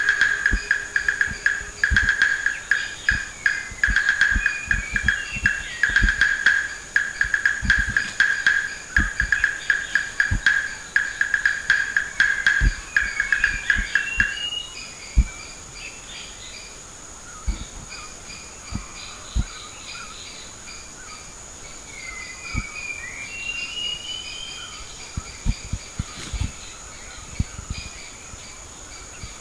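Three-striped palm squirrel calling a fast, steady run of sharp repeated chirps at one pitch, which stops about halfway through. After that, quieter bird song with whistled rising glides can be heard, over a steady high insect drone and a few soft low thumps.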